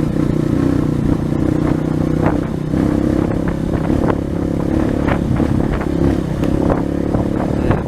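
230 cc single-cylinder trail motorcycle running steadily under load, with scattered knocks and rattles as the bike jolts over rough dirt road.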